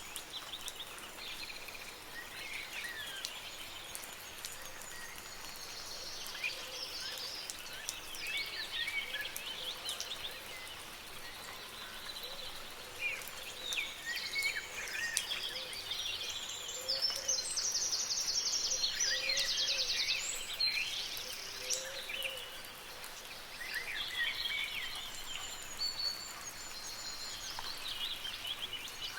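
Several songbirds singing and calling over a steady soft hiss of light rain. A rapid, high-pitched trill of repeated notes is the loudest part, a little past the middle.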